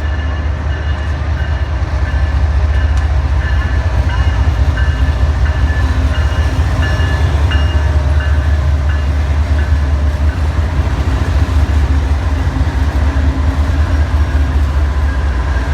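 Freight train rolling past close by, a loud steady rumble of wheels on rail, with faint intermittent high squeals in the first half.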